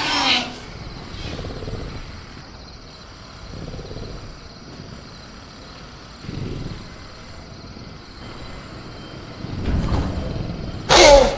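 Sound-designed velociraptor vocalisations. A screeching call trails off just after the start, low rumbling growls come and go, and near the end a loud shriek with a falling pitch breaks in. Faint steady high crickets run underneath.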